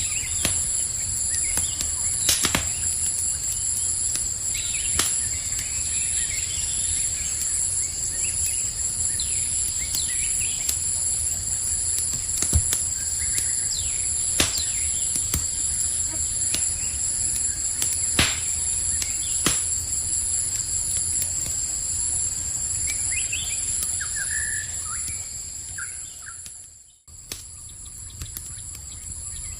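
Campfire crackling with occasional sharp pops, over a steady chirring of night insects. A few short bird chirps come about three-quarters of the way through. Near the end, the whole sound dips almost to nothing for a moment, then comes back quieter.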